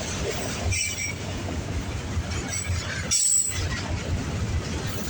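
Autorack freight train rolling past: steady rumble of wheels on rail, with brief high-pitched wheel squeals.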